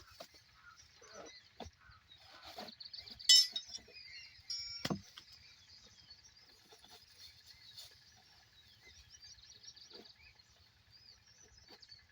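Outdoor ambience with faint bird chirps, a few scattered clicks and one sharp click about three seconds in. No engine is running.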